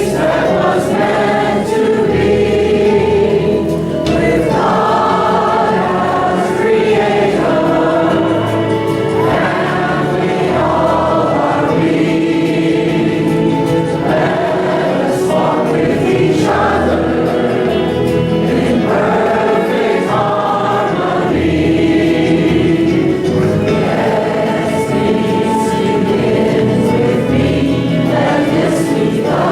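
Congregation singing a peace song together in unison, with sustained low notes beneath the voices.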